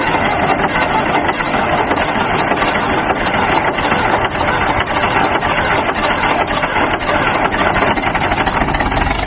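A vehicle engine running steadily with a dense, even rattle.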